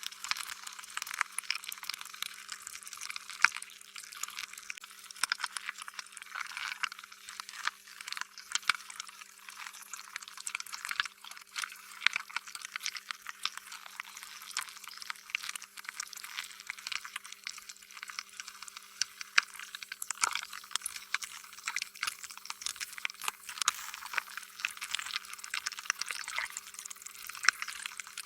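Slime being squished and stretched: a continuous run of irregular wet squelches and small sticky pops, thin and without bass.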